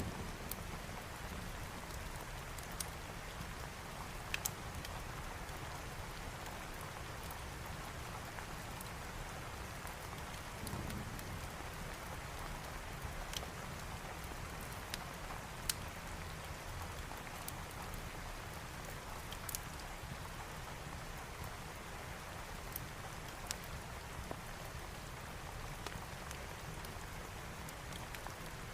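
Steady rain falling, with scattered sharp pops of a crackling wood fire.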